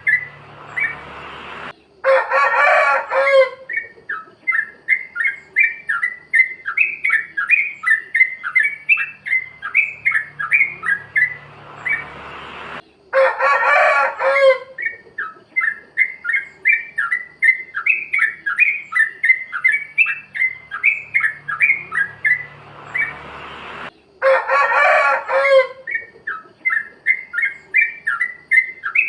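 Yellow-vented bulbul (trucukan) calling in a rapid run of short 'plik plok' chirping notes, about three to four a second. Every eleven seconds or so a louder, fuller song phrase of about two seconds breaks in, the pattern repeating as a loop.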